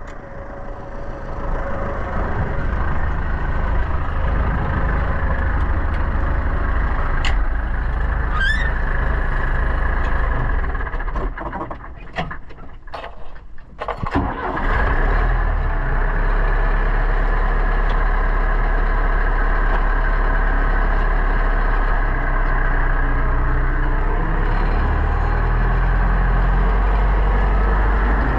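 Pronar 1025A tractor engine running steadily while ploughing. About halfway through the sound drops away briefly with a few sharp clicks, then the engine settles back into steady, lower-pitched running.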